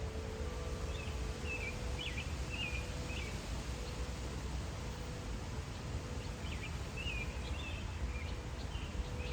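Songbird chirping in two short runs of quick high notes, one about a second in and one near the end, over a steady outdoor background hiss and low rumble. A faint lingering chime tone holds underneath.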